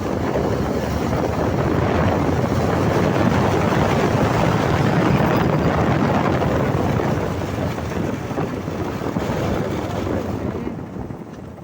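Wind rushing over the microphone of a moving motorcycle, with the bike running underneath, in an even noisy rush that drops off near the end.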